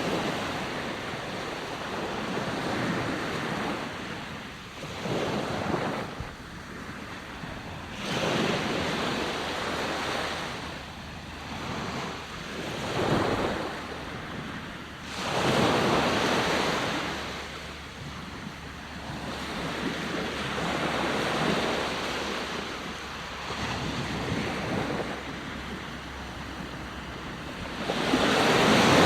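Ocean waves breaking and washing up in surges every few seconds, with a biggest one near the end, and some wind in the background.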